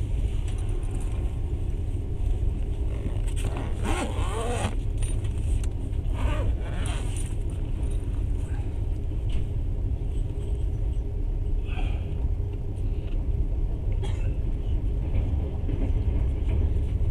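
Passenger train running, heard from inside the carriage: a steady low rumble with a few brief, higher-pitched noises about four, six and a half, and twelve seconds in.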